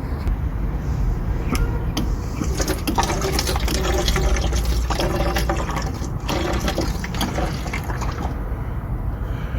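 Diesel fuel splashing into a bucket as the fuel line is bled of air, the flow gathering about a second and a half in and tailing off near the end. A steady low rumble runs underneath.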